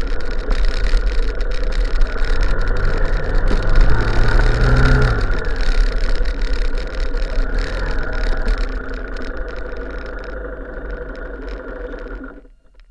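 A vehicle engine running with heavy wind rumble on the microphone. It swells and rises in pitch about four to five seconds in, then fades gradually and cuts off suddenly near the end.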